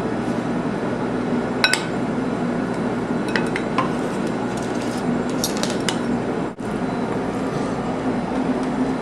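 A utensil clinking and scraping against a glass baking dish a few times while biscuit pieces are stirred into caramel sauce, over a steady background hum.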